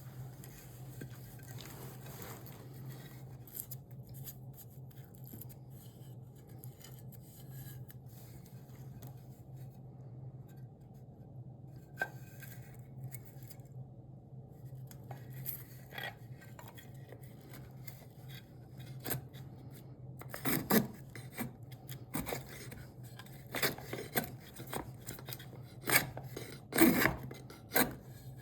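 Hand tool scraping on cherry wood: scattered faint scrapes at first, then, from about two-thirds in, a run of louder, irregular rasping strokes. A steady low hum runs underneath.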